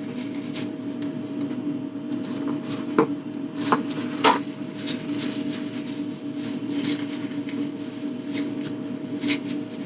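Rubbing and handling sounds from wiping a container clean with a disinfecting wipe, with a few light knocks about three to four and a half seconds in, over a steady hum.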